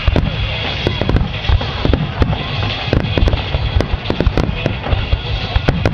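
Fireworks going off in rapid succession: a dense, irregular run of sharp bangs and crackles, several a second, over a steady din.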